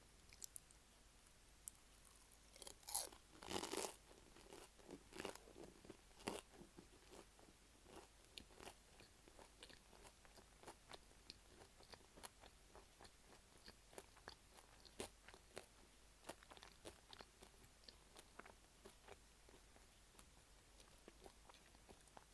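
Close-miked eating of a beef stew pie with flaky puff-pastry crust: a louder crunchy bite about three seconds in, then steady chewing with many small crackling clicks.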